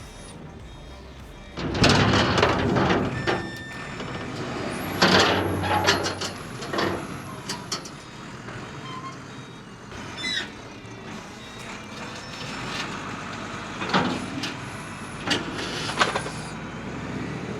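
Wheel loader running while it lifts loose metal parts, with several loud sudden clatters along the way.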